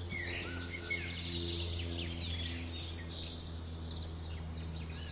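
Small wild birds singing and chirping in short, repeated phrases, over a steady low hum.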